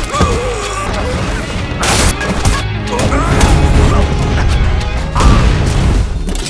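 Action film soundtrack mix: a loud music score layered with heavy impacts and crashes, two sharp hits standing out, about two seconds in and again past five seconds.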